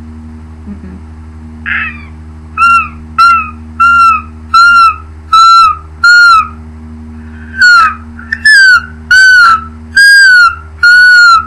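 A woman's voice imitating a seagull: a string of about eleven short, high, whistly calls, each bending down in pitch at its end, starting with a faint try and then coming in quick loud bursts with one short pause in the middle. A steady low hum runs underneath.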